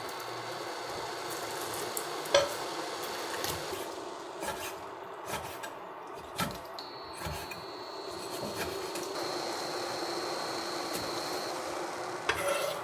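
Cooking sounds: a utensil scraping and rubbing against cookware, with a few sharp clinks of metal or dishes. A faint steady high whine comes and goes in the background.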